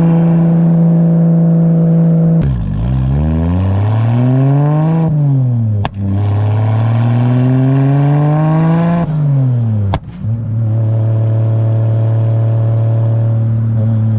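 Straight-piped turbo RB30 inline-six of an R31 Skyline, running through a cat-deleted, decored exhaust. It holds steady revs, climbs and falls in pitch twice over a few seconds each, then settles into a steady drone again. A few sharp cracks come where the revs change.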